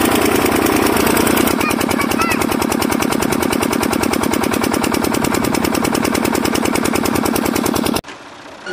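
Miniature water-pump diesel engine running with a rapid, steady chugging knock; the sound cuts off suddenly near the end.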